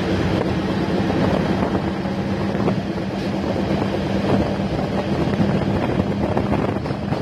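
Diesel-electric multiple unit (DEMU) passenger train running, heard from on board: a steady low engine drone under a constant rushing noise of the moving train.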